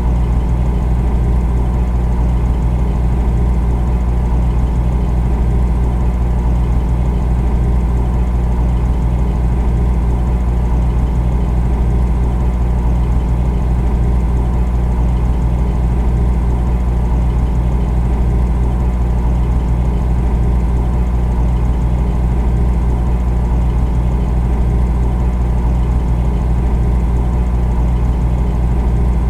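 Refrigerator running: a steady, unchanging low hum.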